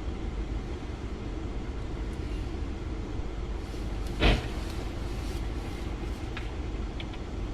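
Steady low road and engine noise of a moving car, heard from inside the vehicle, with one sudden loud thump about four seconds in.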